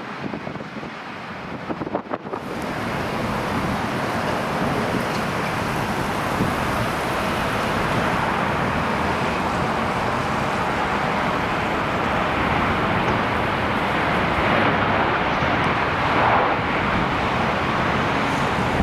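Wind buffeting the microphone, a loud, steady rush that comes up about two seconds in.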